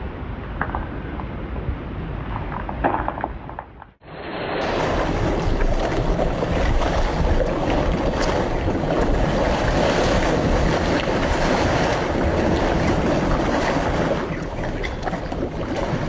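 A steady rush of wind and surf, with wind buffeting the microphone. It cuts out abruptly about four seconds in and comes back louder and fuller, continuing evenly to the end.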